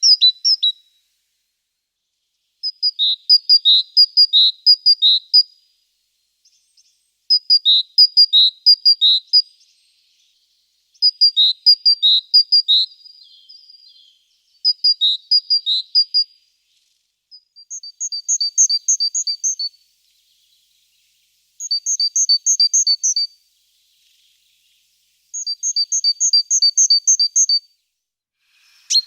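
A small songbird singing, about seven phrases of rapid repeated high notes, each two to three seconds long, with short pauses between.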